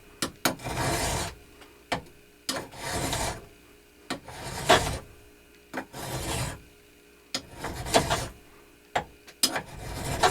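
Hand file being pushed in slow, even strokes across a metal part of a 1x42 belt grinder, about one stroke every couple of seconds, taking down a high spot. Short clicks come between the strokes.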